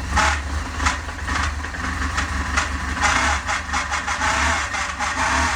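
BMW R1200GS boxer-twin engine idling with sharp, irregular clicks or knocks on top, becoming a denser rattle about three seconds in: the unwanted noise the owner finds is still not fixed.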